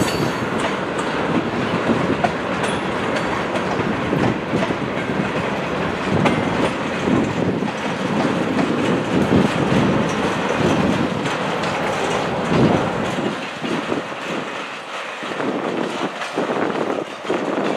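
Freight train tank cars rolling past, their steel wheels clickety-clacking over the rails with a steady rumble. The rumble thins and fades over the last few seconds as the cars move away.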